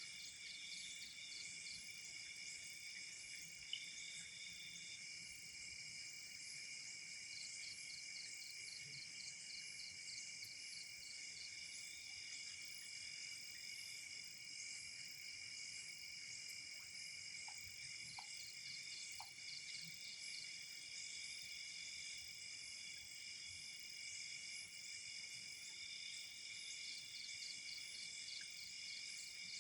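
Night insects, crickets among them, trilling steadily at several overlapping pitches, with fast pulsed chirp trains recurring every few seconds. A single sharp pop stands out about four seconds in.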